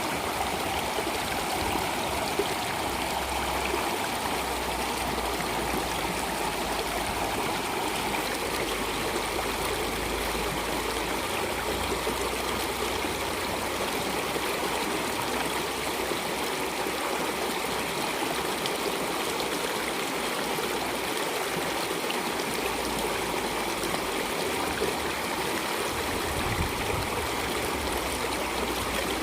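Water flowing steadily, like a stream running over rocks, with a constant even rush and no changes.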